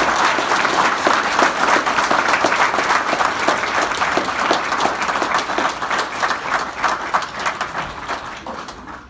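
A crowd applauding, many hands clapping, tapering off toward the end.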